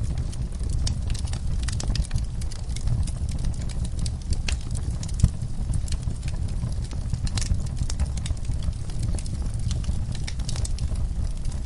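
Wood fire crackling in a fireplace, with a steady low rumble and frequent irregular pops, one sharper pop about five seconds in.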